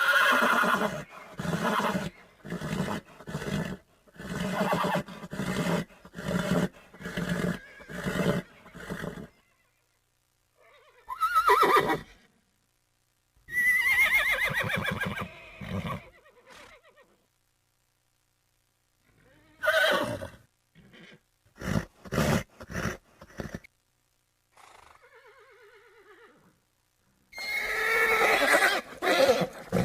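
Horses neighing and whinnying in a string of separate calls with silent gaps between them. The first nine seconds are a run of short pulses, about two a second, and a loud whinny comes near the end.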